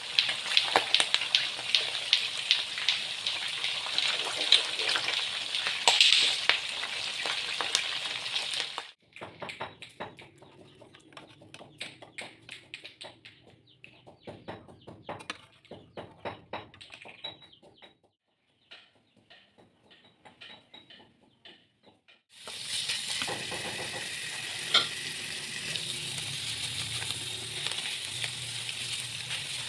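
Pieces of catfish frying in hot oil in a pan, sizzling and crackling loudly while a spatula turns them. About nine seconds in it drops to quiet scattered clicks and taps of a spatula in the nearly empty pan. At about 22 seconds a steady sizzle returns as lemongrass spice paste (kroeung) fries in oil.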